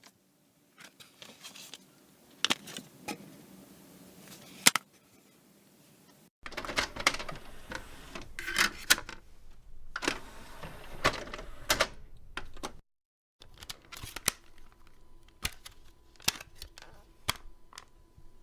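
Three separate short recordings of sharp, irregular clicks and clatter, each cut off abruptly, with a short gap between them.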